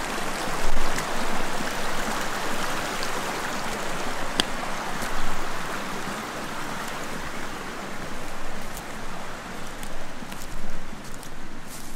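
Shallow stream flowing steadily, its water rushing and babbling over stones, with a few sharp clicks. Near the end the water sound thins and a cluster of sharper clicks comes in.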